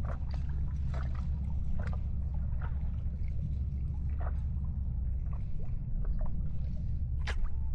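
Water lapping and splashing in short irregular slaps over a steady low rumble.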